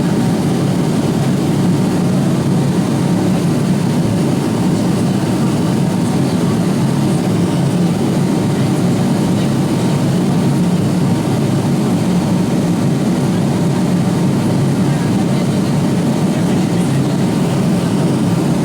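Steady cabin noise of an Avro RJ-85 airliner in flight: a constant low rumble from its four turbofan engines and the airflow, with no change in pitch or level.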